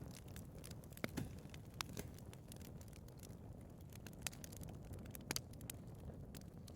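Wood fire burning in a fireplace: a steady low rumble of flames with scattered crackles and sharp pops, a few louder snaps about a second in, near two seconds, and twice more after four seconds.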